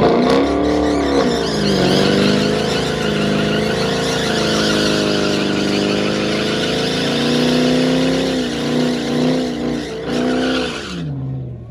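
Infiniti G35's V6 engine driven hard on track: the revs climb steeply, drop back, then rise and fall again through the gears. The sound cuts off suddenly near the end.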